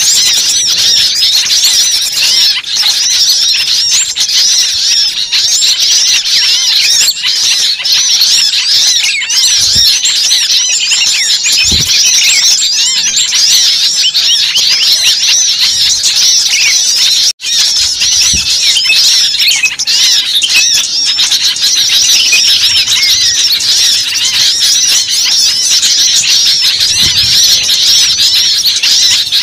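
A dense, noisy chorus of many small birds chirping and squeaking without pause, high-pitched, with a momentary dropout about seventeen seconds in. It is the agitated small-bird chorus used as a bird-luring call (suara pikat).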